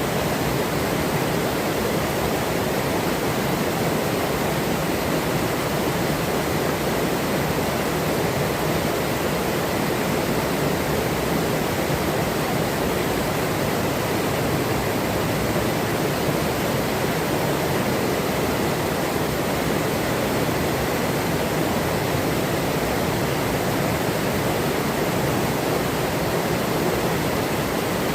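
Forest river running: a steady, even rush of flowing water.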